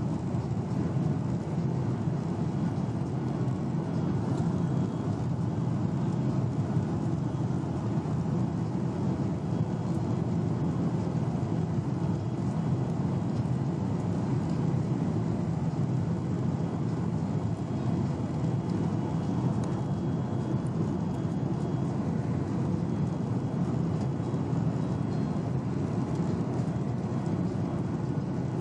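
Steady cabin noise of a Boeing 737-800 in flight: an even rumble of airflow and its CFM56-7B engines, unchanging throughout.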